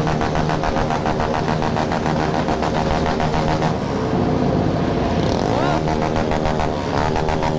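A crowd of motorcycles running together loudly in a dense, steady engine din, with engines revved up twice near the end.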